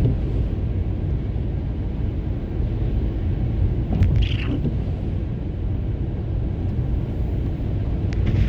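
Car road and engine noise heard from inside the cabin while driving: a steady low rumble, with one short higher sound about four seconds in.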